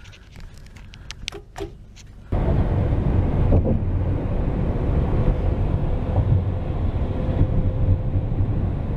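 A taxi driving, heard from inside the cabin: steady engine and road noise with a low rumble, which starts abruptly about two seconds in. Before that the cabin is fairly quiet apart from a few small clicks.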